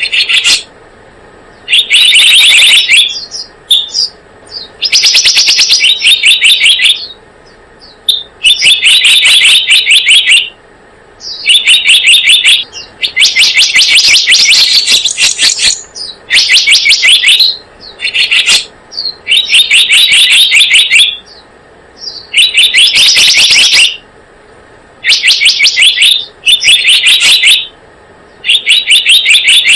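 Recorded song of the selendang biru bird, used as a trapping lure: loud bursts of rapid, repeated chirping notes, each burst lasting a second or two, repeating every two to three seconds.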